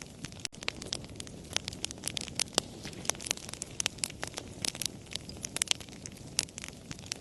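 Wood fire crackling: irregular sharp pops and snaps, several a second, over a low steady rush of the flames.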